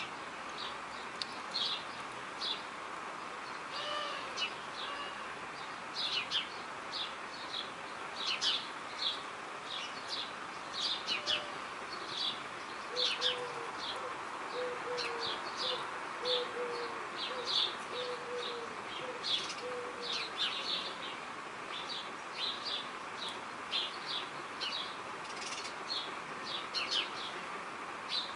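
Birds chirping: many short high chirps, several a second, over a steady background hiss. In the middle comes a low call repeated about seven times, roughly once a second.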